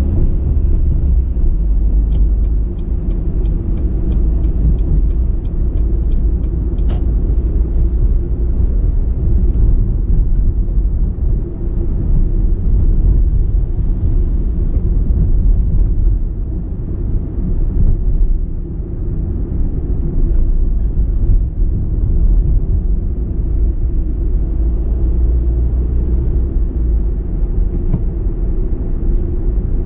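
Car driving: a steady low rumble of engine and road noise. A run of light, evenly spaced ticks comes a couple of seconds in and lasts about five seconds.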